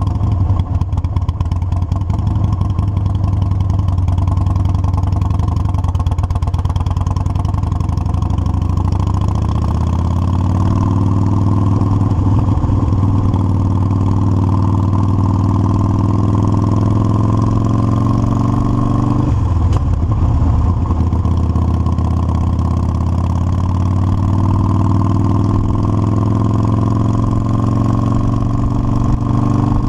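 Motorcycle engine running steadily and loudly, its note climbing about ten seconds in and briefly dropping about twenty seconds in before settling again.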